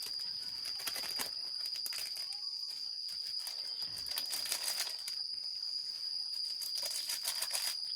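Crickets chirring in one steady, unbroken high-pitched trill, with scattered faint clicks and crackles over it.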